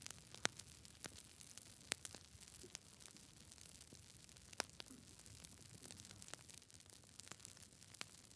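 Campfire wood crackling: scattered, irregular sharp pops over a faint low hiss of burning. The loudest pops fall about half a second in, about two seconds in and about four and a half seconds in.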